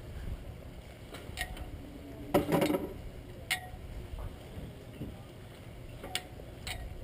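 Scattered short clicks and knocks, with one louder clatter about two and a half seconds in, over a steady low rumble.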